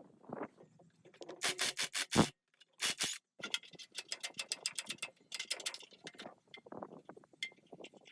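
A hand tool scraping in quick repeated strokes, several a second, with a louder burst of strokes about two and three seconds in.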